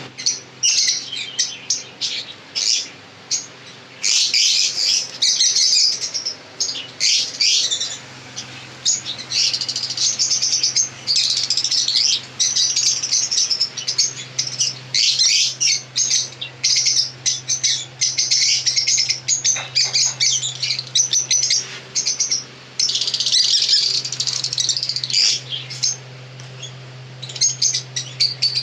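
A flock of small pet birds chirping busily, many quick high calls overlapping with short pauses between bouts. A steady low hum runs underneath and gets louder about eight seconds in.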